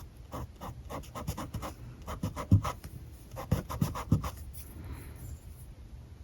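Alcohol marker scratching across paper in quick repeated strokes, about three or four a second, with a few louder thumps between about two and four seconds in, then the strokes stop.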